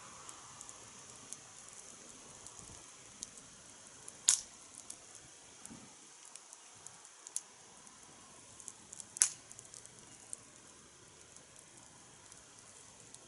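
Wood fire crackling, with scattered small ticks and two louder sharp pops about five seconds apart.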